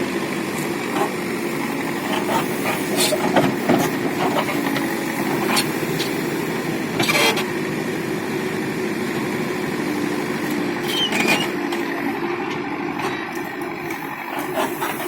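Mahindra 235 DI tractor's diesel engine running steadily, with scattered knocks and clatters over it.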